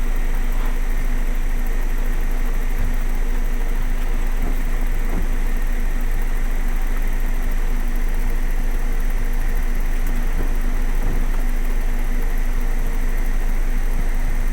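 Heavy rain falling in an even, steady rush, with a low rumble and a steady mechanical hum of two held tones underneath.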